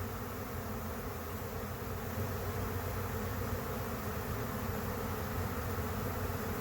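Steady dense buzzing hum of a honey bee swarm in flight, thousands of bees in the air just after the swarm has left its hive.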